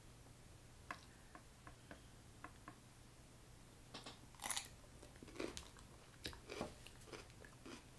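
Close-up eating sounds: a few faint ticks, then from about four seconds in a bite into a fresh cucumber spear and chewing, with short sharp mouth sounds and lip smacks as fingers are licked.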